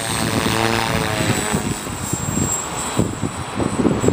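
Align T-Rex 450 Pro electric RC helicopter flying, a steady hiss of rotor blades and motor with a brief pitched whine in the first second. Gusty wind buffets the microphone.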